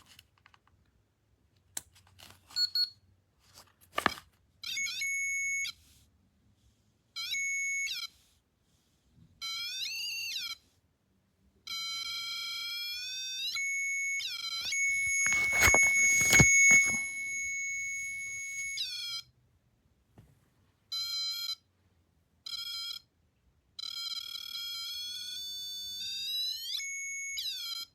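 Homemade REM pod built from a MadLab Junior Theremin kit sounding through its small speaker: an electronic tone in on-off bursts of one to two seconds, its pitch bending up and down, with a longer rising glide near the end. A few clicks in the first four seconds and a loud knock of handling about halfway.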